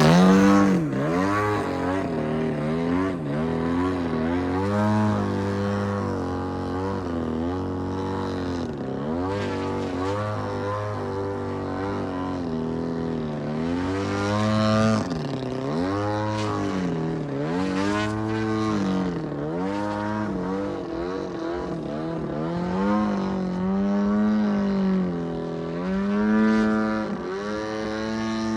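Engine and propeller of a 90-inch Extra 330SX radio-controlled aerobatic plane in flight, its pitch swinging up and down every second or two with throttle changes and as the plane passes by.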